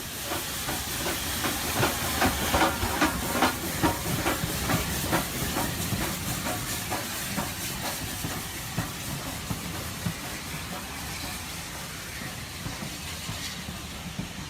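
Model steam locomotive chuffing steadily with a hiss of steam, a regular beat of about two to three chuffs a second. The chuffs are loudest a couple of seconds in and then fade gradually as the train draws away.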